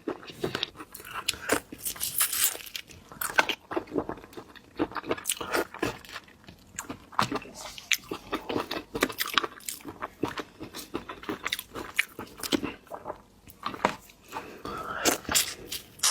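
Close-miked eating of shellfish: steady crunching and chewing with many sharp, irregular clicks and cracks.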